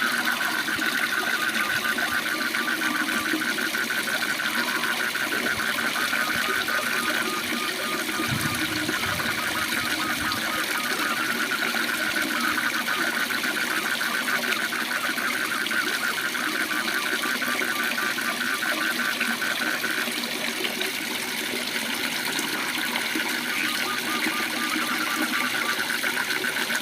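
Steady rush of a waterfall with a rapid, even pulsing trill of frogs running through it.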